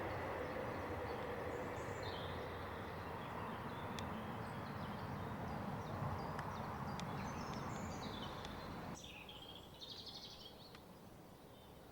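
Rumble of a passing train fading into the distance, dropping away abruptly about nine seconds in, with birds chirping over it.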